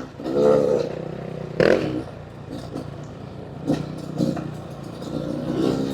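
Dirt bike engine idling, with a few short rises in pitch and a single knock about one and a half seconds in.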